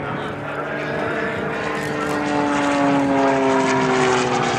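Single-engine propeller aerobatic plane flying a display: a steady engine-and-propeller drone whose pitch slowly slides as it manoeuvres, growing louder in the second half.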